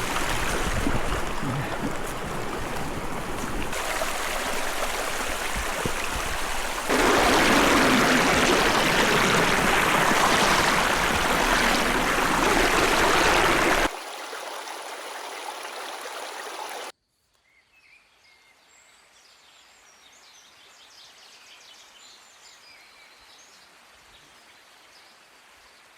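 Rushing river water, steady and without a beat, in several abruptly cut stretches, the loudest in the middle. It then drops to a much quieter background with faint scattered high sounds for the last third.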